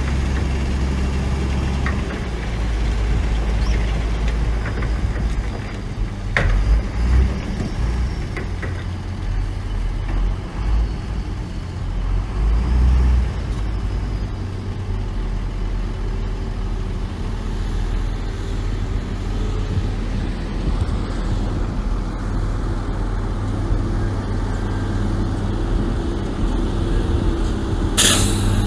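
Heavy diesel earthmoving machinery, dump trucks and a bulldozer, running with a steady low rumble that swells and eases for a stretch. A short, loud hiss comes near the end.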